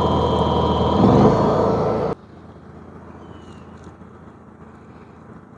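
Honda EU7000is fuel-injected inverter generator running steadily, then speeding up about a second in as the Eco-Throttle is switched off for full throttle. The sound cuts off abruptly about two seconds in, leaving a much quieter steady background.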